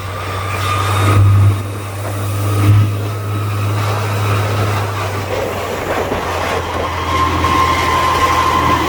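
Mega truck heard from inside its cab while driving: a steady low engine drone with rattling and two jolts, about a second in and near three seconds in. A thin whine grows near the end.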